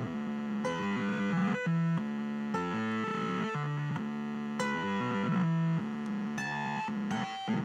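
Distorted electronic tones from experimental music gear: held, buzzy pitched notes that jump abruptly up and down to new pitches every half second or so.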